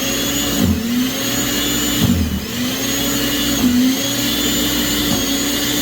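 Snow Joe snow blower's motor running with a steady whine whose pitch dips briefly about three times, around the first, second and fourth seconds, then recovers: the motor bogging down as it bites into deep, heavy, wet snow.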